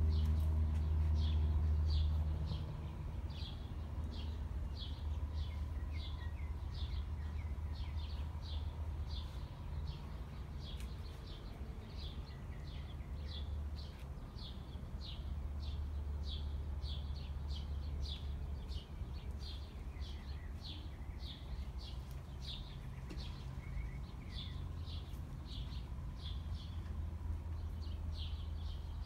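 A bird chirping over and over, two or three short high chirps a second, over a low rumble that is loudest in the first two seconds.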